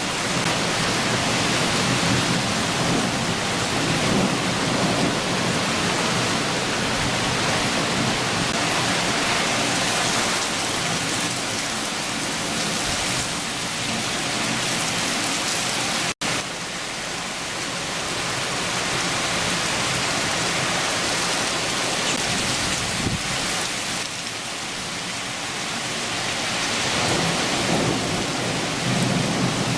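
Steady, heavy summer rain shower pouring down, with low rumbles of thunder swelling near the start and again near the end. The sound drops out for an instant about halfway through.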